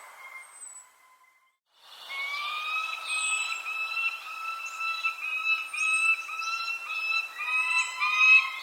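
Birds calling: short high chirps over a sustained, wavering whistle-like tone. The sound cuts out briefly about a second in, then comes back louder.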